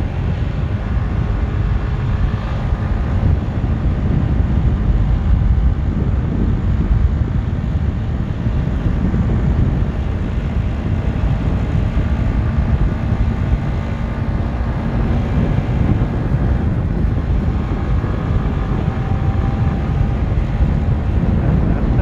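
Motorcycle riding at a steady speed: engine running at an even note under heavy wind rush on the microphone.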